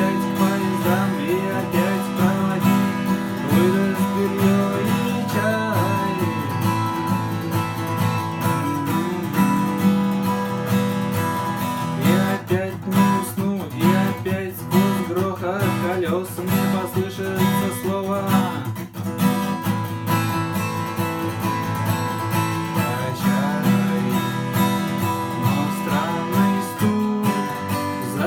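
Acoustic guitar strummed in a steady rhythm, chords ringing without a break.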